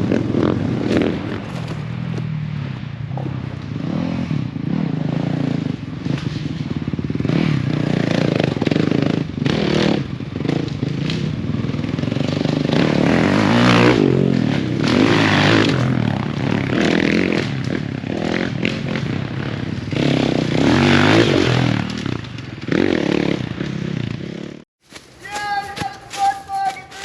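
Motocross dirt bikes riding the track, engines revving up and dropping off again and again. The sound cuts off abruptly about three seconds before the end, and a different steady high tone with light clicks follows.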